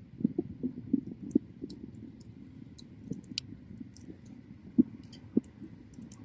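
Bonfire burning, its wood crackling and popping at irregular intervals: many soft low pops mixed with a few sharp snaps, the loudest pops a little under five seconds in.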